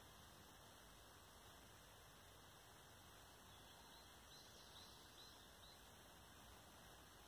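Near silence with faint steady hiss, and a short run of faint, high bird chirps a little past halfway.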